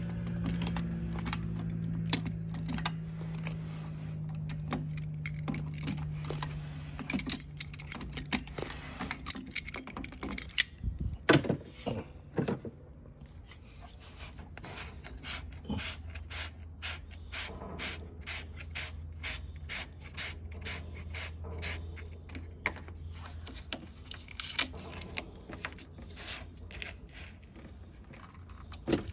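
Repeated clicking and scraping of hand tools and metal parts on a water heater's drain valve fitting while the old valve is worked loose, over a steady low hum.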